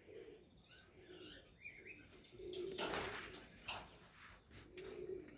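Serbian highflyer pigeons cooing in the loft, low calls repeating every second or so, with thin high chirps over them and a brief flutter of wings about three seconds in.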